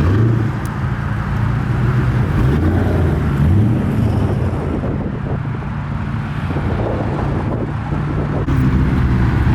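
A supercar's engine running at low revs and blipped briefly upward twice, about three seconds in, as the car pulls along.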